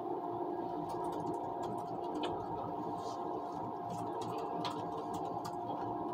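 Steady running noise of an ICE train heard inside the moving carriage: a constant hum with a few held tones, and scattered light ticks and clicks over it.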